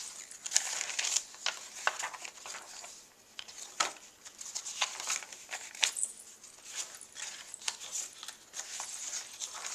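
Paper pages of a handmade junk journal being leafed through and handled: irregular rustling and crinkling with light taps and flicks.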